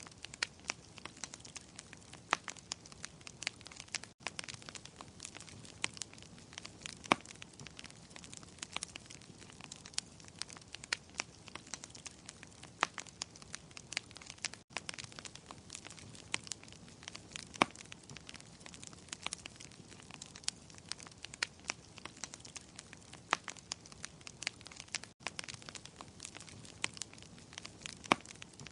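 Wood fire crackling in a fireplace: a soft steady hiss with frequent sharp pops and snaps of varying loudness, several a second.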